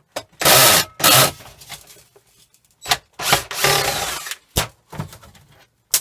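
Power drill-driver unscrewing fasteners from a hair dryer's casing in short bursts: two quick runs about half a second and a second in, and a longer run about three seconds in, with a few clicks and knocks between.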